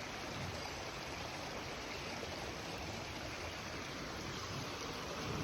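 Steady rushing of flowing water from a stream.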